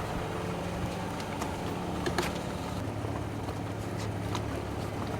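An engine running steadily with an even low hum, with a few faint clicks.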